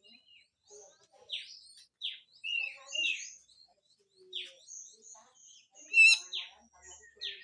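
Cucak jenggot (grey-cheeked bulbul) giving harsh, rough calls: a string of short downward-sweeping notes about once a second, mixed with fainter high chirps, and one louder, sharper ringing note about six seconds in.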